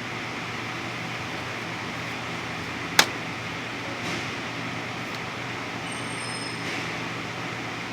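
Steady fan or air-conditioning noise with a low hum, and a single sharp click about three seconds in.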